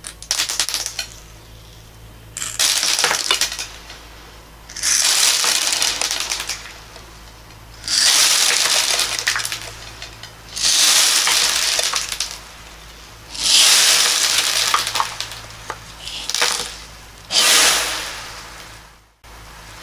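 Small hard beads pouring and clattering in a series of separate cascades, about eight of them, each lasting a second or two.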